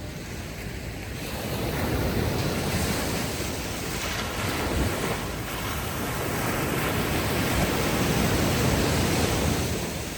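Ocean waves washing up onto a sandy beach, a steady wash of surf that swells twice and eases off near the end.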